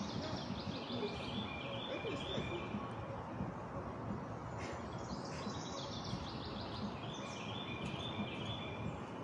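A songbird singing two long phrases of rapid short notes, each stepping down in pitch, over steady outdoor background noise.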